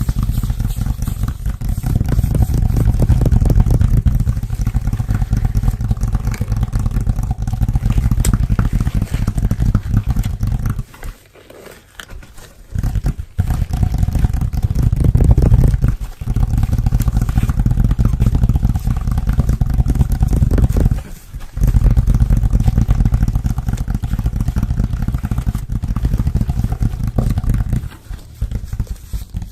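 Close-miked ASMR trigger sounds: fingers working rapidly against a surface or the microphone, a dense rumbling run of fine strokes. It comes in bursts of several seconds with short breaks about 11, 16, 21 and 28 seconds in.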